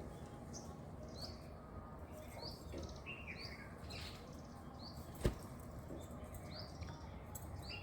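Faint, short, high bird chirps repeating about twice a second, with one sharp click a little after five seconds in.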